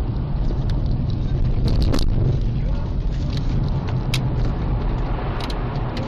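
Car driving: a steady low rumble of engine and road noise, with scattered clicks and a brief louder noise about two seconds in.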